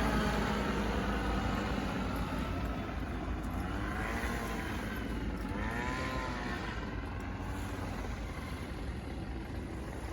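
Passing road traffic: a vehicle engine fading away as it drives off, then another engine whose pitch rises and falls, over a steady rumble that slowly dies down.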